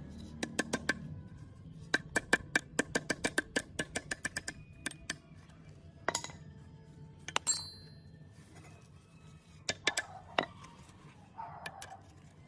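Sharp metallic clicks and clinks of small metal parts being handled, including a quick run of about a dozen taps and one clink that rings on briefly. Near the end there are a few short barks from a dog.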